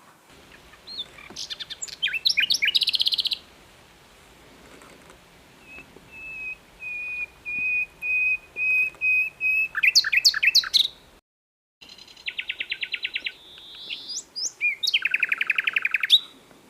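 Common nightingale singing in separate phrases: fast chattering notes and buzzy trills, and a run of about ten level piping whistles that swell in loudness before a quick flourish. The sound cuts out briefly a little after the middle, then the bird goes on with two rapid trills.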